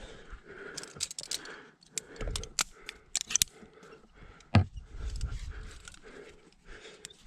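Metal climbing hardware clinking and clicking, carabiners and quickdraws knocking together, with one harder knock about halfway through, over heavy breathing.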